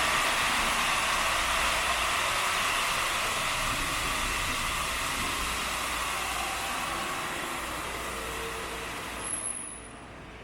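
The Kempton Park 1929 triple-expansion steam engine running: a steady, dense hissing machinery noise that slowly fades, then drops off sharply near the end, just after a brief high whine.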